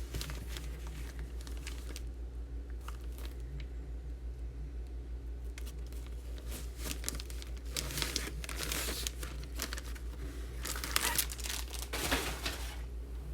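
Plastic packaging crinkling and rustling in irregular bursts as a card item is handled and unwrapped, over a steady low electrical hum.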